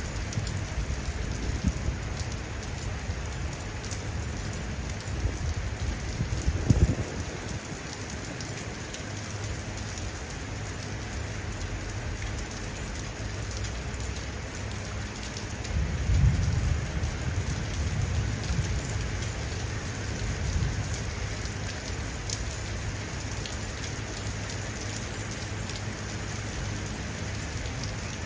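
Rain falling steadily in an even hiss, with a short, loud clap of thunder about a quarter of the way in and a longer low rumble of thunder rolling for several seconds just past the middle.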